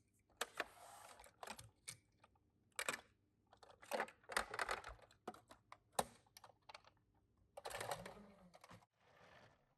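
Small toy cars and their packaging being handled: a run of sharp clicks and taps, with short bursts of rustling.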